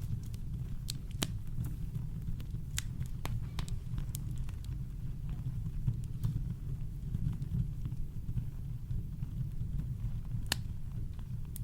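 Campfire crackling: scattered sharp pops and snaps at irregular intervals, the strongest near the end, over a steady deep low rumble of brown noise.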